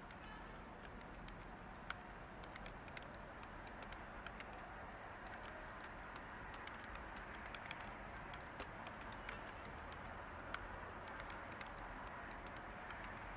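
Light, irregular computer-keyboard typing, scattered clicks over a steady background hiss of white noise.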